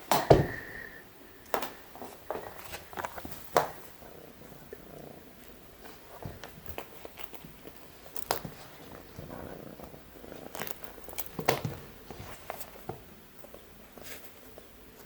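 Kitten purring softly, with scattered short clicks and taps throughout; the loudest knock comes just after the start.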